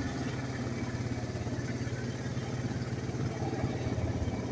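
ATV engine running steadily with a fast, even low hum.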